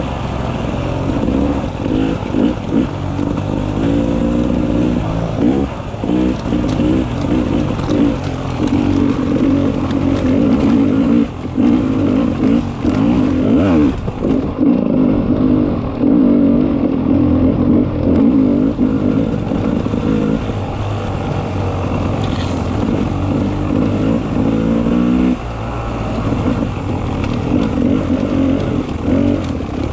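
Beta 300 RR two-stroke enduro motorcycle engine running hard on a trail ride, its pitch rising and falling with the throttle. It revs up sharply near the start and again about 25 seconds in.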